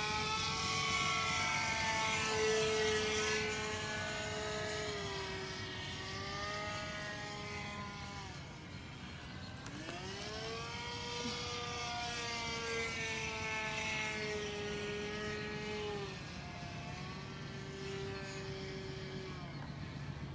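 Two-stroke glow engine (OS 25FX) of a radio-controlled model airplane running at high throttle in flight, its pitch falling and rising repeatedly as the plane passes and manoeuvres, with a deep dip about halfway through. The engine's bearings are rusted from long disuse and it can hardly be throttled back; the owner says it sounds off.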